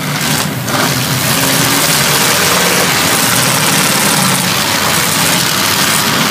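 Several demolition derby cars' engines running and revving together in a loud, steady din that swells about a second in.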